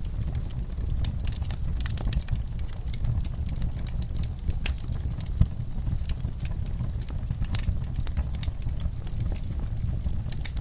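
Wood fire in a fireplace burning, with frequent small crackles over a low steady rumble, and one sharper pop about five seconds in.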